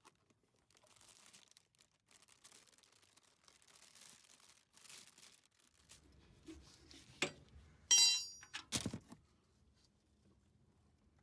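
Rustling and crinkling for several seconds, then a few sharp knocks and one loud ringing metallic clink with a duller knock straight after, as tools and parts are handled during an engine oil change.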